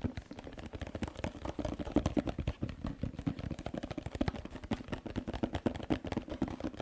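Rapid tapping for ASMR: a quick, uneven run of many small taps a second.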